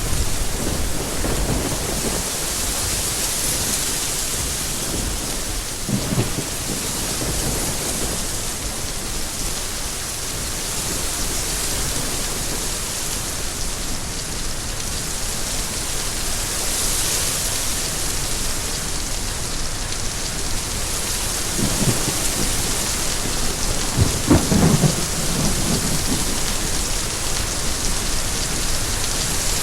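Steady rain falling, with low rolls of thunder rising out of it several times; the loudest roll comes about three-quarters of the way through.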